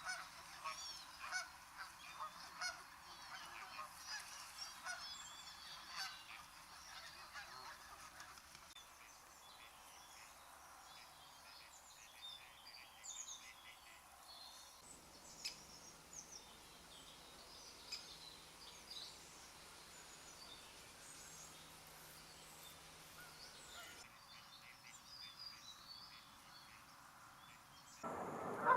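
Geese honking: many short calls overlapping, busiest in the first several seconds and thinning out after, mixed with other bird calls.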